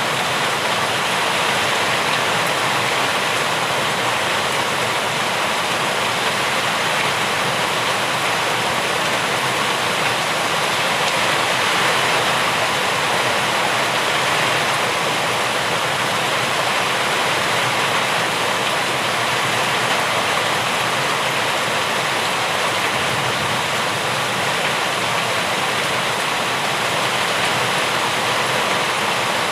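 Heavy rain falling steadily: an even rushing hiss with no single drops or thunder standing out.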